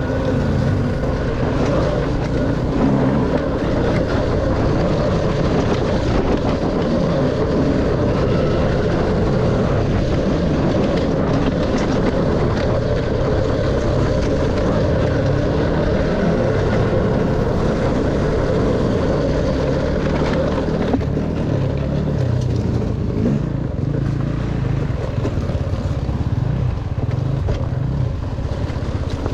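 Dirt bike engine running and revving up and down as it is ridden along a trail, with wind noise on the microphone.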